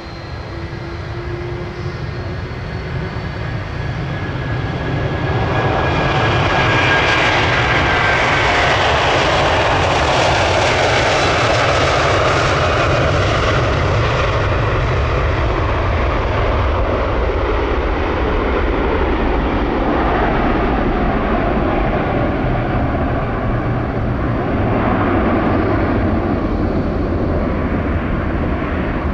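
Jet airliner's engines passing close by. The roar grows over the first few seconds, then holds loud, with a whine that slides down in pitch as the plane goes past.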